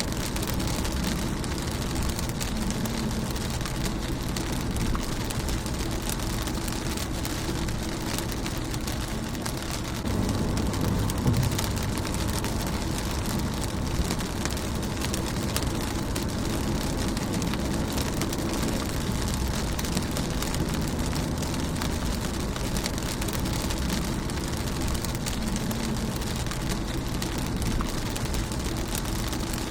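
Steady rain drumming on a car's windshield and body, heard from inside the car, with countless small drop ticks over a low rumble. The rain swells a little about ten seconds in.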